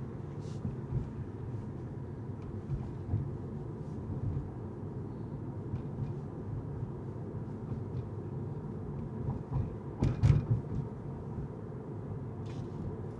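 Car driving on city streets: a steady low rumble of tyres and engine, with a few light clicks and a louder thump about ten seconds in.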